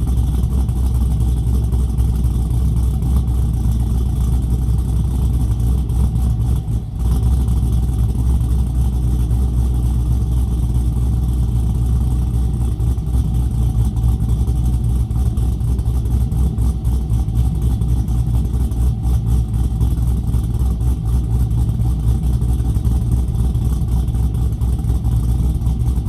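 Holden Commodore VF SS V8 with its exhaust resonators deleted, running steadily at a low, even pitch, with a brief dip about seven seconds in.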